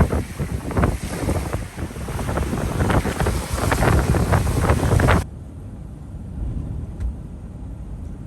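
Hurricane-force wind buffeting the microphone in gusts, with surf under it; about five seconds in it cuts off suddenly, leaving a quieter steady low rumble.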